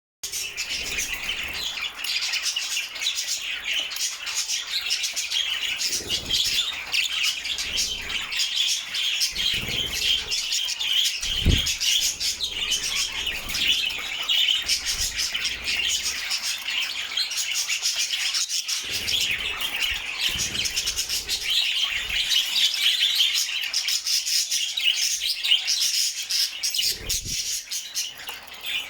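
Budgerigar chirping and chattering almost without pause over a steady hiss of shower spray, with a few brief low thumps, the strongest about halfway through.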